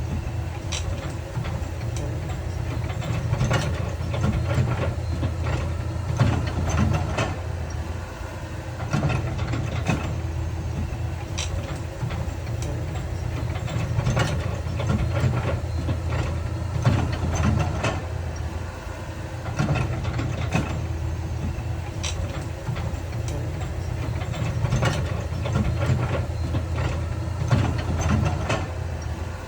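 Heavy diesel earthmoving machinery running steadily, with frequent short metallic clanks and knocks laid over the engine.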